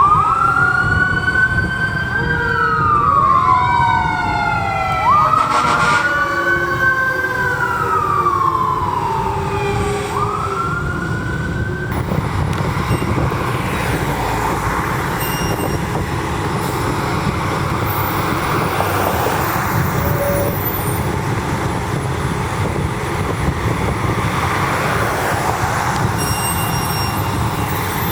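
Emergency vehicle sirens wailing, rising and falling in pitch, with a second siren sweeping faster across them over a heavy engine rumble. About twelve seconds in the sirens cut off abruptly, leaving steady road traffic and a large vehicle's engine.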